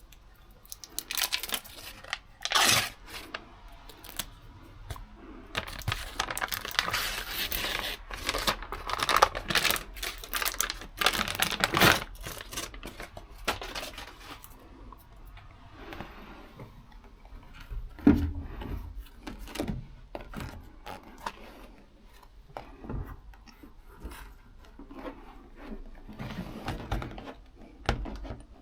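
Self-adhesive sound-insulation sheet being handled: tearing and crinkling noises, with scattered knocks and taps.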